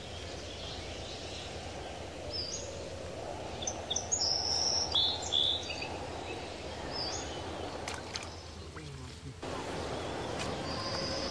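Birds calling in short, high chirps several times over a steady outdoor background hiss.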